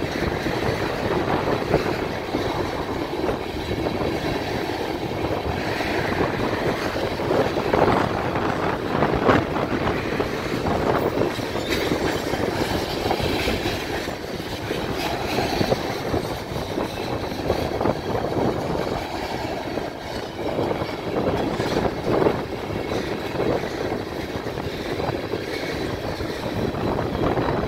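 Freight train of loaded-type railroad tank cars rolling past at close range: a steady rumble of steel wheels on rail, broken by frequent clicks and knocks as the wheel sets pass.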